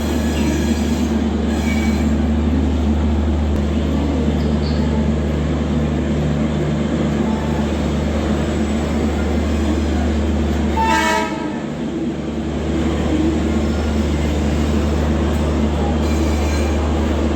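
A train at a railway station: a steady low drone throughout, with a short train-horn blast about eleven seconds in.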